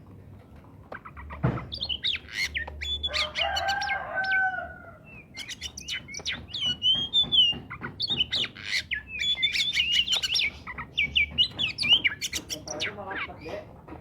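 Oriental magpie-robin singing vigorously: a fast, varied run of loud whistles, slurred notes and chatter in two long bursts with a short break about five seconds in. A chicken calls under the song about three seconds in.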